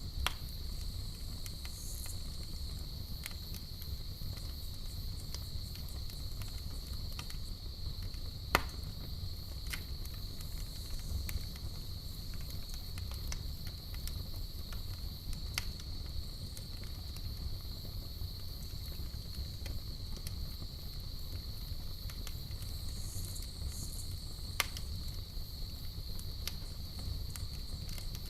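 Campfire crackling, with scattered sharp pops (the loudest about eight and a half seconds in and again near the end) over a low fire rumble. Under it runs a steady, high, unbroken cricket trill.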